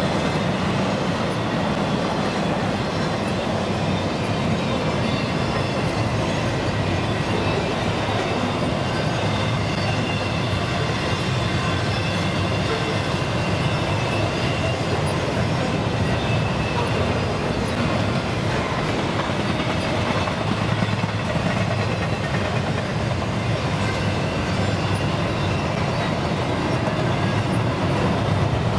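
Double-stack container train's well cars rolling past: a steady, unbroken rumble of steel wheels on rail, with faint thin high whines above it.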